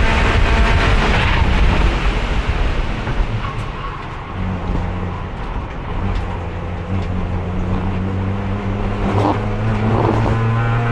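Race car engine heard from inside the car, held in fourth gear because the worn transmission will not shift: running at high revs at first, easing off about two seconds in, then pulling back up with the pitch rising slowly toward the end. A couple of short rushing noises come near the end.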